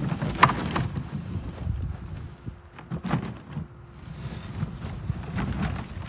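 Wind buffeting the microphone in a low, uneven rumble, with a few scattered knocks, the sharpest about half a second in.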